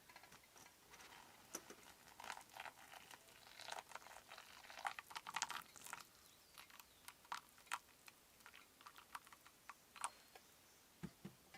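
Faint, irregular crinkling rustles and small clicks, with two low knocks near the end.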